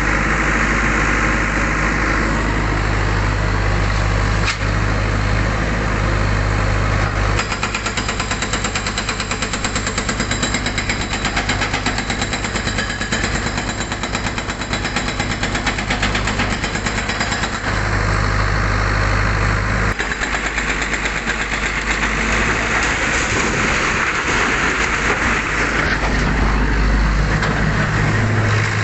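Backhoe loader's diesel engine running steadily while its hydraulic breaker hammers in rapid blows, in a long spell from about a quarter of the way in and again more briefly later.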